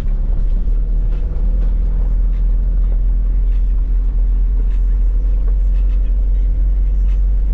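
Car driving: a loud, steady low rumble of engine and road noise.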